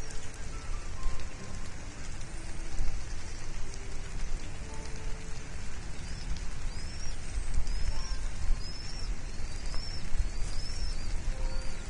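Steady hiss of rain with a low rumble throughout. In the second half a bird gives a run of about seven short, high arched chirps, evenly spaced.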